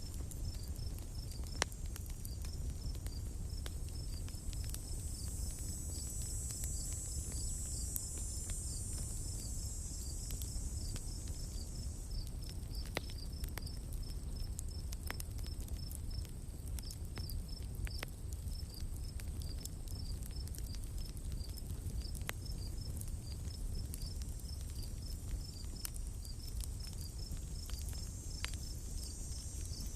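Campfire crackling with scattered sharp pops over a low steady rumble, while an insect repeats a high chirp a few times a second over a high hiss of other insects.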